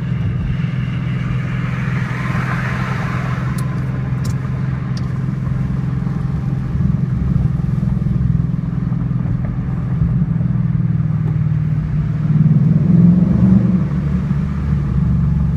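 A 2012 Mustang GT's 5.0 V8 running through an MBRP Race Series cat-back exhaust, heard from inside the cabin while driving: a steady deep exhaust drone that swells louder for a moment near the end.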